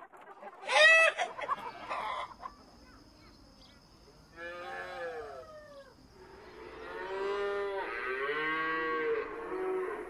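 A chicken gives a short, loud squawk about a second in. Cattle then moo: a short moo about halfway through, and a long, drawn-out moo over the last three seconds.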